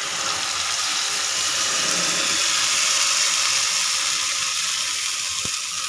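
Wet ground fenugreek-and-rice paste poured into hot mustard oil in an iron kadhai, sizzling loudly. The hiss starts suddenly as the paste hits the oil and eases slightly near the end.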